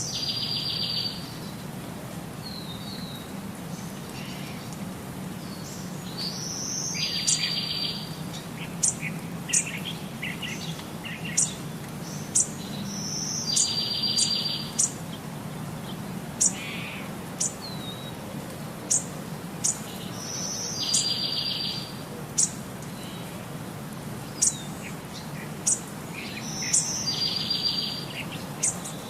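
Songbirds singing: a song phrase of a high note and then a buzzy trill about a second long comes back about every seven seconds, with short sharp high chirps in between, over a low steady hum.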